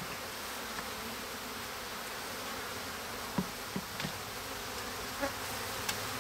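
A mass of honeybees buzzing steadily around an opened hive, with a few short light clicks in the second half.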